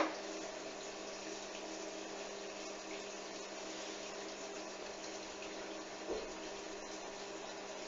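Hoover washing machine on a duvet wash: a sharp click at the start, then a steady faint rush of water running inside the machine, with one small bump about six seconds in.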